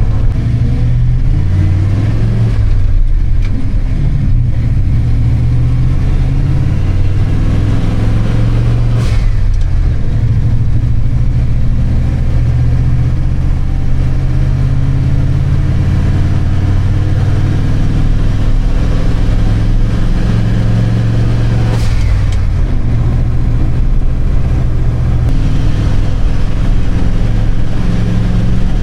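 A 1976 Ford F-250's engine pulling under load while towing a heavy trailer, heard from inside the cab, its pitch stepping up and down as it goes. Two brief sharp clatters stand out, one about nine seconds in and one around twenty-two seconds.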